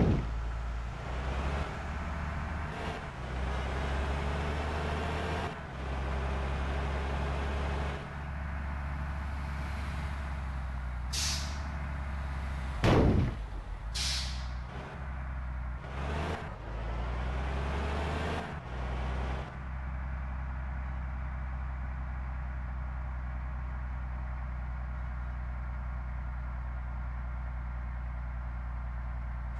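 Mitsubishi Fuso Canter dump truck's engine running, its sound shifting in level for the first twenty seconds or so, then settling into a steady idle. Two short sharp hisses come a little after ten seconds and three seconds apart, with a loud knock between them.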